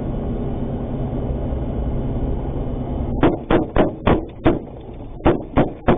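A vehicle engine running with a steady low hum for about three seconds. Then a quick run of sharp, separate sounds, about three a second, takes over.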